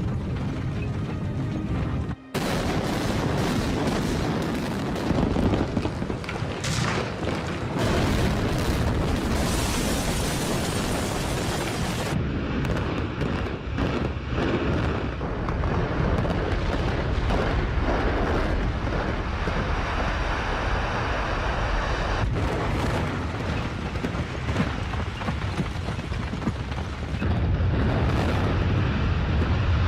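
Explosive demolition of a reinforced-concrete structure: after a brief break about two seconds in, the charges go off and the concrete collapses in a long, heavy rumble that goes on for many seconds.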